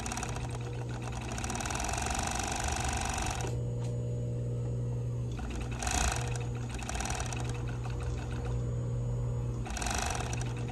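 Overlock sewing machine (serger) running in stretches as it finishes the raw cut edge of a sleeve. It stops briefly twice and starts up again.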